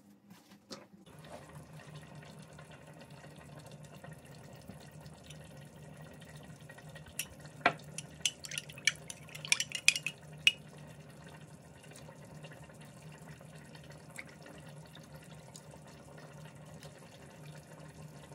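Kitchen tap running steadily into a sink. It starts about a second in and stops near the end. In the middle comes a quick run of sharp clinks of dishes or glassware being handled.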